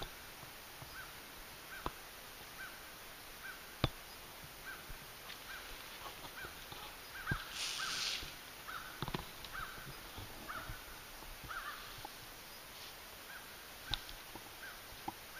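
A bird calling steadily in short, repeated calls about twice a second. A few sharp knocks and a brief rustle about eight seconds in stand out over it.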